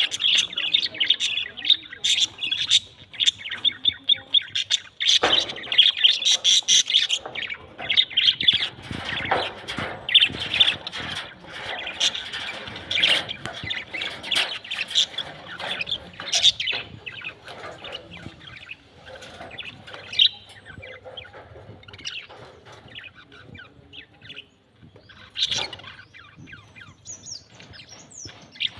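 Budgerigars chirping and chattering in quick, busy runs of short calls, which thin out to scattered chirps after about seventeen seconds.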